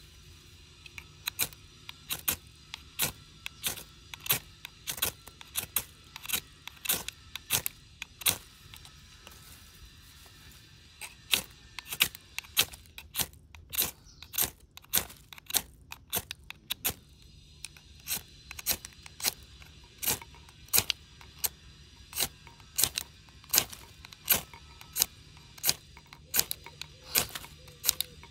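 A fire starter struck over and over in a quick series of sharp strikes, about one or two a second, with a short pause near the middle, trying to get a spark to catch. The speakers suspect the tinder is too damp to light.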